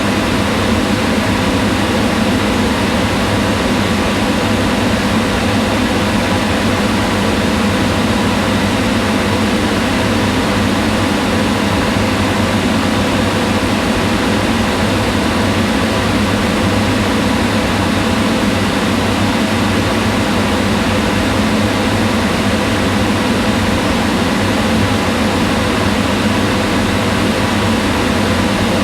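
Kitchen range hood fan running, a steady whooshing rush of air with a faint hum.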